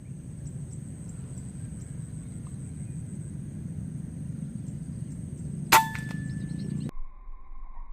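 A single shot from a PCP air rifle: a sharp crack with a short metallic ring, about three-quarters of the way in, over steady low outdoor rumble.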